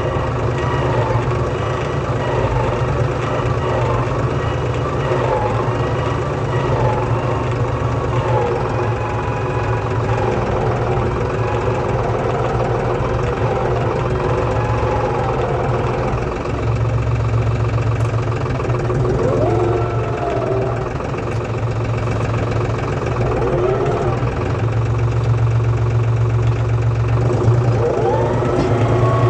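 Farm tractor's diesel engine running steadily, likely pulling a plough, with a few short swooping tones in the second half.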